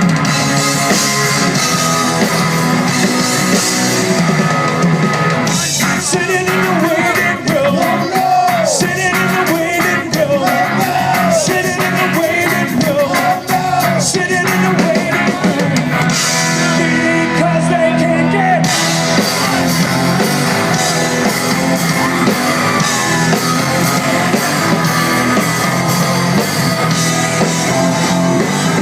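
Rock band playing live: electric guitar and drum kit at full volume, with a lead voice singing over them through much of the middle.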